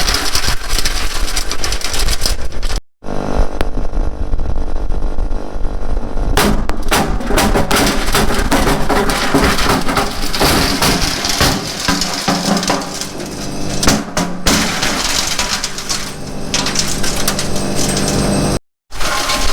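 CMA-W3 3-inch wood chipper running under load, its motor droning steadily while branches are fed in and chipped with dense cracking and splintering. The sound drops out briefly about three seconds in and again near the end.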